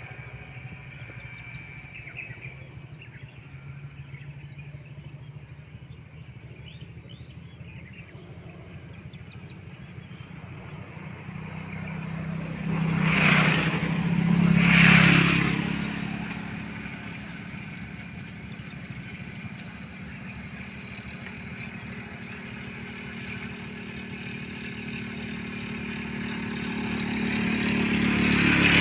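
Motor vehicles passing by on a road: two go past in quick succession about halfway through, and another approaches near the end, each swelling and fading. Between them there is a steady high insect drone.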